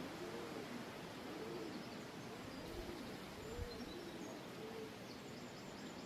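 Pigeons cooing: a low coo that rises and falls, repeated in runs, over a steady hiss of wind. A few faint high bird chirps come in about halfway through.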